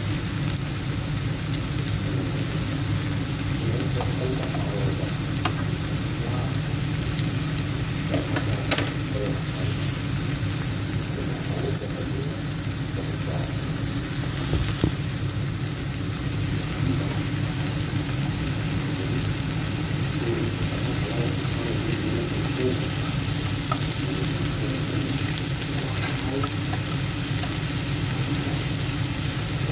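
Chicken strips sizzling steadily in hot oil on a cast-iron griddle pan, with a few light clicks.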